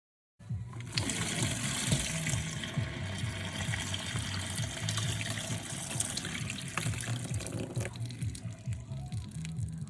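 Water gushing and gurgling steadily, cutting in suddenly about half a second in, with an uneven low rumble under it.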